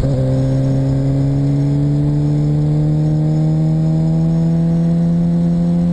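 Suzuki GSX-R600 inline-four engine pulling steadily, its note rising slowly in pitch as the motorcycle accelerates.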